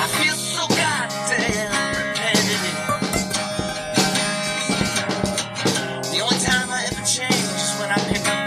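A band's blues-rock song playing: guitar over a drum kit, with lead notes bending up and down in pitch in the first couple of seconds.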